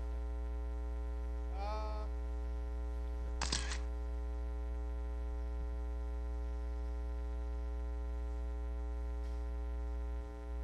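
Steady electrical mains hum with a buzzy ladder of overtones, running unbroken. A sharp click comes about three and a half seconds in, and a brief rising tone just before two seconds.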